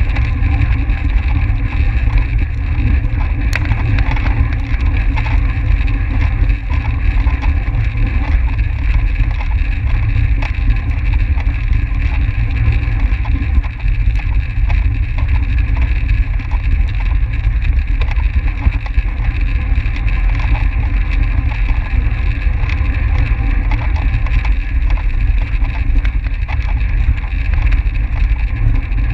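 Steady rush of wind over the microphone of a track bike moving at race speed, a constant low rumble with a steady higher hiss and no breaks.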